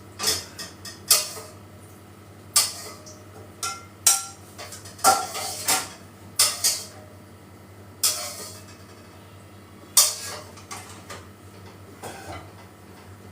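Kitchen cookware and utensils clattering: about ten irregular knocks and clinks of metal and dishes, a few ringing briefly.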